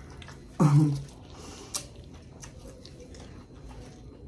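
Quiet chewing and mouth noises of people eating crispy fried chicken wings, with scattered small clicks and one sharper click. About half a second in, a short hummed vocal sound such as an "mm" is the loudest thing.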